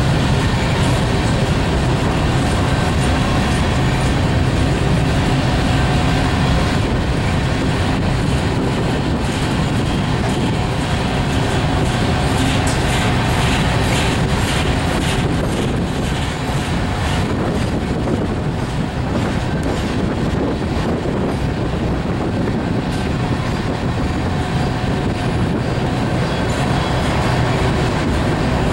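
Freight train of loaded covered hopper cars rolling slowly past, a steady rumble of wheels on rail with the clickety-clack of wheels over rail joints, thickest about halfway through.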